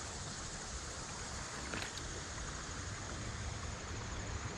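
Steady rushing of creek water, with one faint click about two seconds in.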